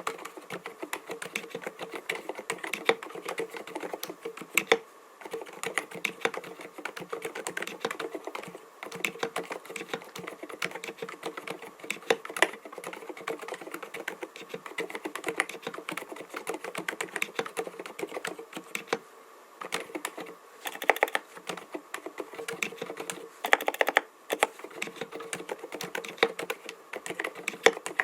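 Continuous fast typing on an mStone Groove T 87A tenkeyless mechanical keyboard fitted with silent (low-noise) Milky 45 g switches: a dense stream of keystrokes, with two brief louder flurries about three quarters of the way through.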